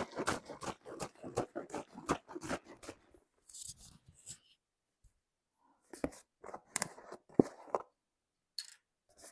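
Crisp close-up handling sounds: a quick run of sharp clicks and snips for about three seconds, then scattered short crinkles and taps with pauses between them.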